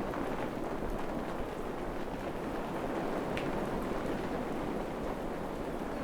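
Steady rain falling in a tropical forest, an even rushing hiss, with a sharper single drop tick about three and a half seconds in.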